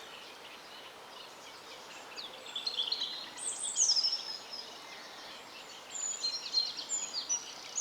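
Small songbirds singing: a run of quick, high chirps and trills, with a couple of falling whistled notes, starting about two and a half seconds in over a faint steady hiss of outdoor air.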